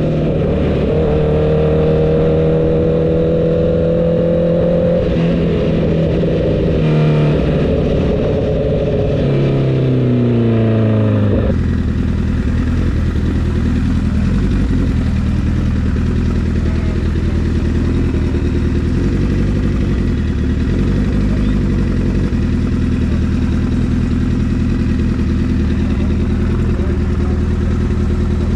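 Motorcycle engine running at a steady speed. Its pitch falls over a few seconds as it slows, and about eleven seconds in it settles into a steady, low-revving note.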